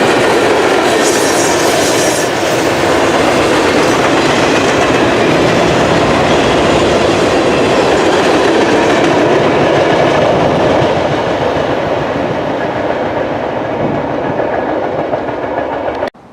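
Freight train cars rolling past, steel wheels running on the rails in a loud steady rush that eases a little in the last few seconds, then cuts off suddenly.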